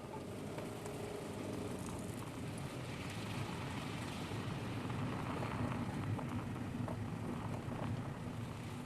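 Car driving on a mountain road, recorded by a dashboard camera inside the cabin: steady engine hum and tyre and road noise, swelling a little a few seconds in.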